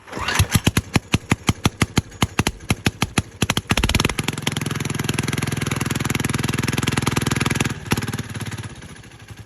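Small supercharged diesel engine on a mini bike catching on a cold start: it chugs with sharp, distinct firing beats about five a second, picks up into a steady, faster run about four seconds in, then drops back to slower, quieter beats near the end.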